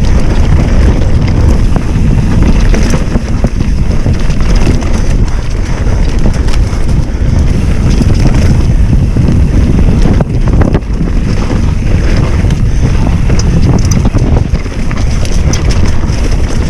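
Wind rushing over the microphone of a moving bicycle rider. The loud, steady, rumbling noise runs throughout.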